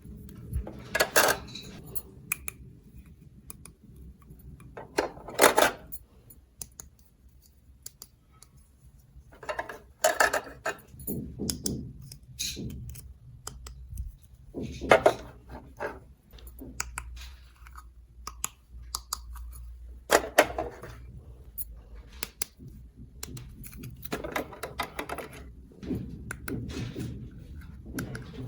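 Small hard plastic toy pieces being handled, clicking and clattering in short bursts every few seconds.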